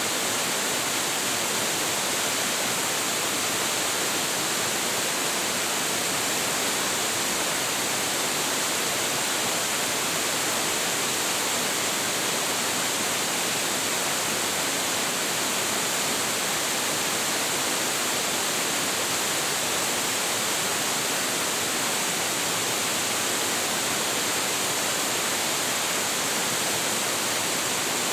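A large waterfall crashing steadily into its plunge pool: an even, unbroken rush of water that is strongest in the hiss of the upper range.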